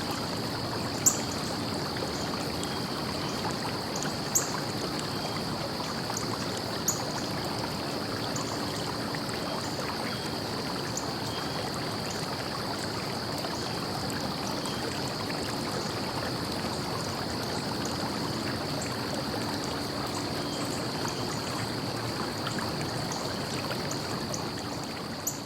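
A stream flowing steadily, its water noise even throughout, with a thin, steady high tone above it and a few sharp clicks, the loudest about one and four seconds in.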